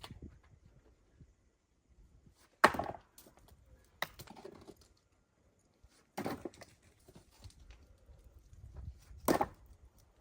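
Wood being chopped: four sharp blows at uneven gaps of one and a half to three seconds, the first the loudest.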